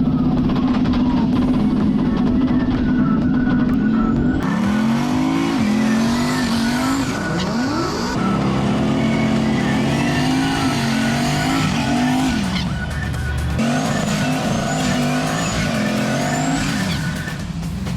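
Car engines revving up through the gears, the pitch climbing and dropping again several times, with tire squeal, cut together in quick sections.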